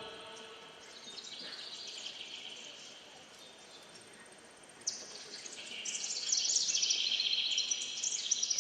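Birdsong on a recorded soundtrack: many small birds chirping, sparse and quiet at first, then thickening into dense, louder chirping about five seconds in.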